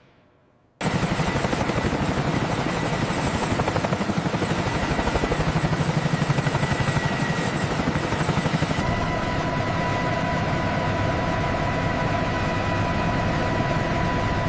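Mi-8 helicopter with its rotor turning and turbine engines running, a dense pulsing sound that starts suddenly out of near silence about a second in. About nine seconds in, a steady higher whine joins it.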